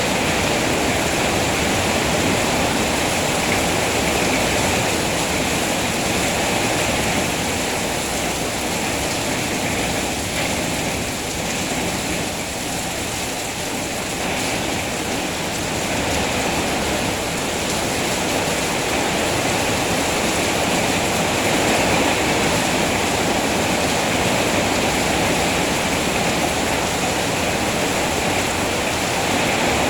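Heavy rain falling steadily, a dense even rushing hiss with no distinct drops standing out; it eases slightly for a few seconds midway.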